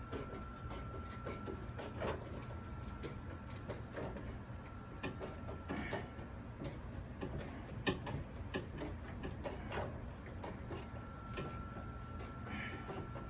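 Ratcheting hand screwdriver driving a screw into wood, with irregular short ratchet clicks and scrapes a few times a second.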